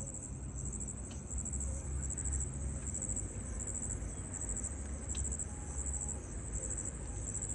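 Insects chirring in a high, fast-pulsing trill over a steady low rumble.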